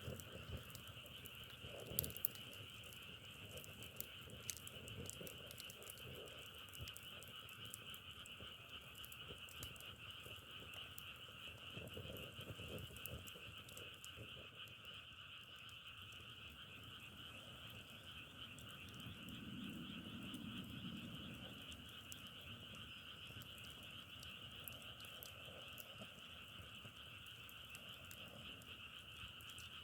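Dense chorus of frogs calling together, a faint unbroken trilling din. Scattered light crackles and clicks run through it, with a couple of sharper clicks about two seconds in.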